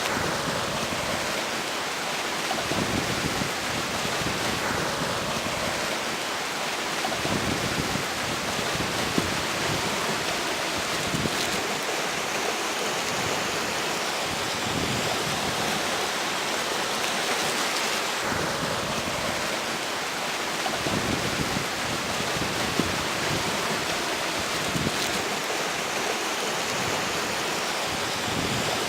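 Steady rush of a flowing river with strong wind blowing over it, the gusts buffeting the microphone as low, irregular rumbles every few seconds.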